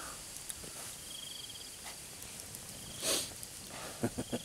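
Crickets chirping at night in short, high, repeated trills over a steady hiss. A single brief, breathy puff of noise comes about three seconds in.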